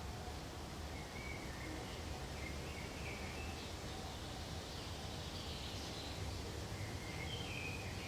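Faint bird calls, a few short chirps in two spells, one about a second in and another near the end, over a steady low background noise.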